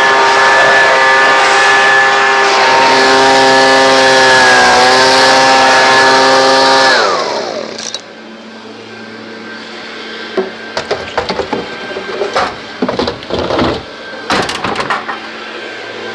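Leaf blower running at a steady whine, then switched off about seven seconds in, its motor spinning down in a falling pitch. After that a faint low hum goes on under a scatter of knocks and clicks.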